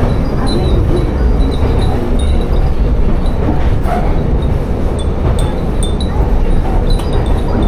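Tsugaru Railway train running along the line, a steady loud low rumble of the railcar and its wheels on the rails. Over it, the glass wind chimes hung in the car tinkle in short high pings, a few times a second.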